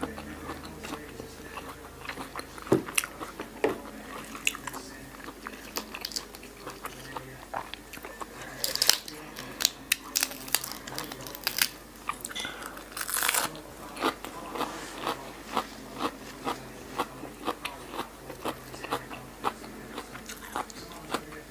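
A woman chewing and crunching mouthfuls of pork-sausage salad with crisp frilly lettuce: a steady run of sharp crunches, with louder clusters about halfway through.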